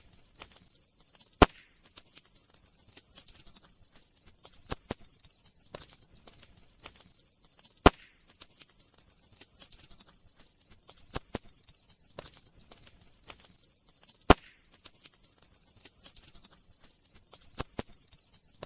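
Wood fire crackling: scattered sharp snaps and pops over a faint hiss, with three louder pops about six seconds apart.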